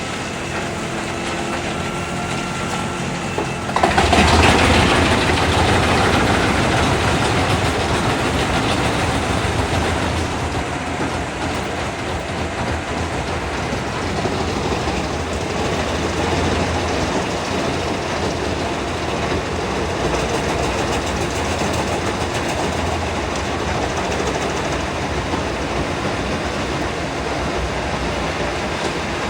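Large wood chipper, rated at about 800 horsepower, running under load and chewing through wood. About four seconds in the sound suddenly gets louder and harsher as a fresh load goes into the machine, then it settles into a steady heavy grinding and clattering run.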